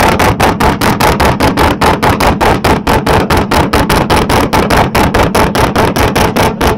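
Loud Nissan Z engine held wide open against the rev limiter, stuttering in rapid cuts about six times a second.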